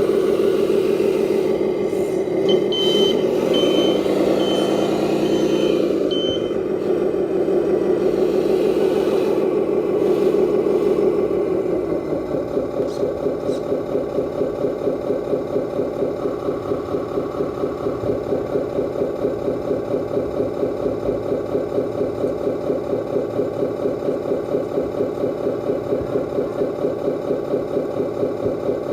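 Simulated diesel truck engine sound from an RC Scania dump truck, its pitch rising and falling as it drives, then settling into a steady, evenly pulsing idle. A few seconds in, a high reversing beep sounds several times.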